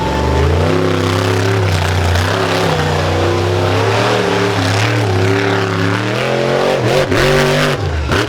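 Monster truck engine revving hard and held at high revs with the pitch wavering, dropping briefly about seven seconds in before climbing again.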